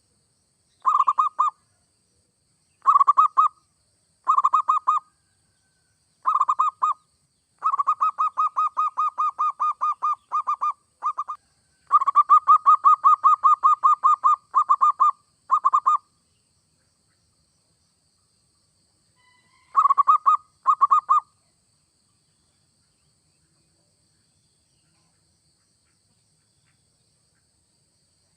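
Zebra dove (perkutut) cooing in quick staccato runs: several short bouts and two long rolling runs of a few seconds each, the last bout about three-quarters of the way through.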